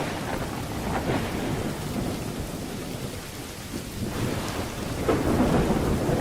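Thunderstorm: steady rain with rolling thunder underneath, the thunder growing louder about five seconds in.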